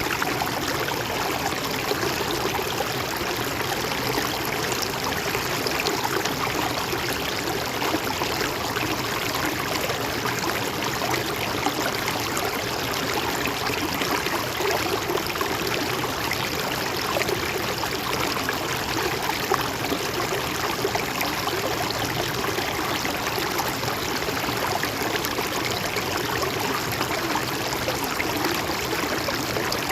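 A river or stream flowing over rocks: a steady rush of running water with fine gurgling and splashing.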